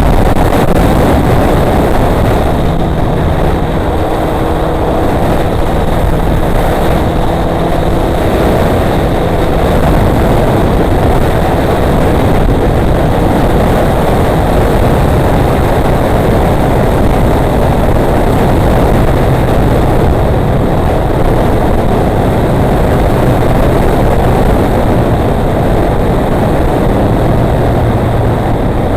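Motorcycle riding at speed: the engine runs steadily under load beneath a loud, even rush of air and road noise, with its pitch settling lower about two-thirds of the way through.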